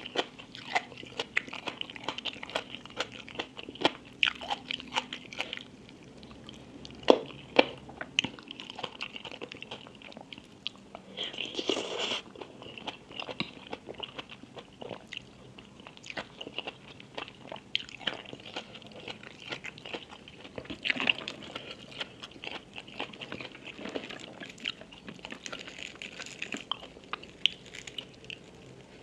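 Close-miked eating sounds: a person biting into and chewing crunchy food, with many sharp crackles and crunches at an uneven pace.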